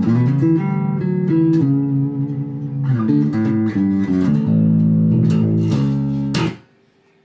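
Epiphone Grabber electric bass played in humbucker mode, a warm tone, with a run of sustained notes that change every half-second to a second. It stops abruptly with a click about six and a half seconds in.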